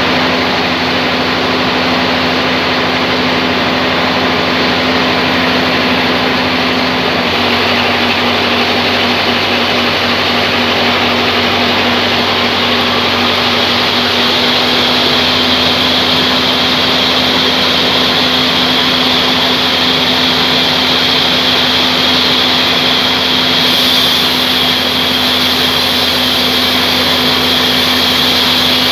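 Band sawmill running steadily: a constant hum under loud mechanical noise. The sound changes character about seven seconds in and turns hissier near the end.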